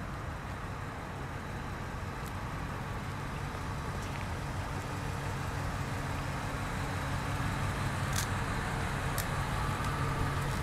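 A vehicle engine idling with a steady low hum, growing slowly louder, with a few faint clicks.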